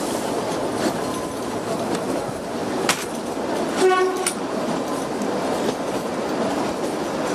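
Narrow-gauge diesel-hauled train running, heard from an open coach window: a steady rumble of wheels on rails. There is a sharp knock about three seconds in, and a brief toot of the locomotive's horn about four seconds in.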